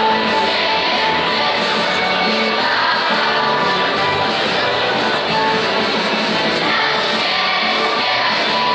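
Choir singing a Polish Christmas carol, with sustained notes and no break.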